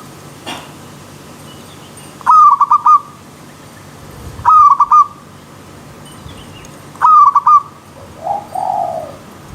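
Zebra dove (perkutut) cooing: three loud phrases of quick, trilled notes about two seconds apart, then a lower, softer call near the end. Under it runs the faint, steady rush of a stream.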